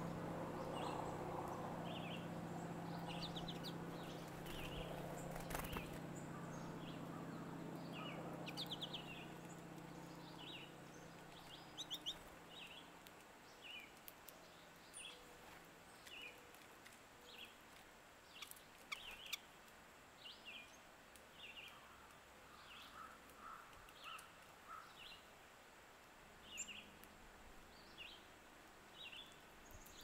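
A small songbird repeating a short, high call note about once a second. A low steady hum fades away over the first half, and a few faint clicks are heard.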